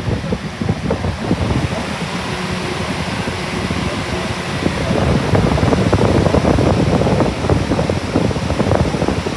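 Lasko B20308 box fan running, its airflow buffeting the microphone with a loud, gusty rush and rumble that grows louder about halfway through.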